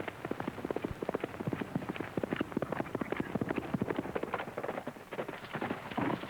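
Horse hoofbeats at a fast pace: a rapid, uneven run of hoof strikes on hard ground.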